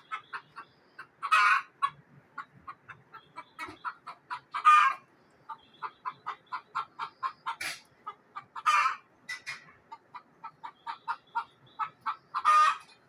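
Frightened hen giving an alarm cackle: rapid runs of short clucks, several a second, broken five times by a louder, drawn-out squawk.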